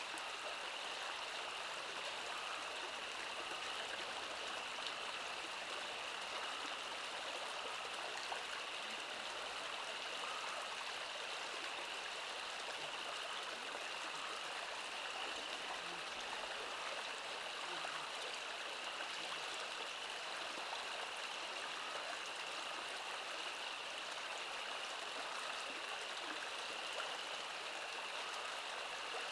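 Steady ambient noise like running water, with a continuous high-pitched hiss or whine sitting over it.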